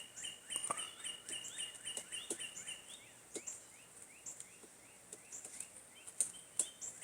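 A small bird repeating short, high, rising chirps about three times a second, with scattered sharp taps of a woodpecker pecking at wood.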